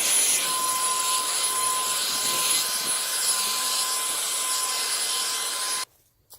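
Leaf blower running steadily: a rush of air with a high, even whine. It cuts off abruptly near the end.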